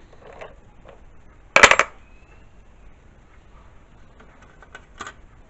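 Metal parts clinking together on a workbench in a short rattling burst a little over a second and a half in, with a single lighter clink near the end.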